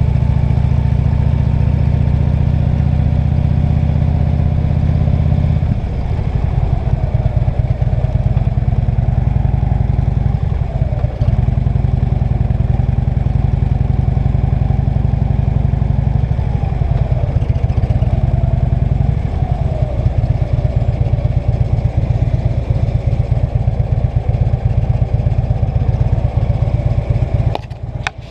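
Vehicle engine running steadily on the move, under a heavy low rumble. The rumble turns rougher and choppier about six seconds in, and the engine pitch rises and falls slightly a few times.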